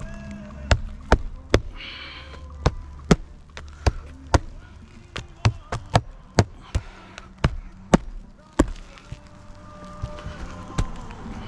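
Hammer blows on a shingle roof, about twenty sharp strikes at an uneven pace, some in quick pairs, as shingles are nailed or pried loose during a leak repair.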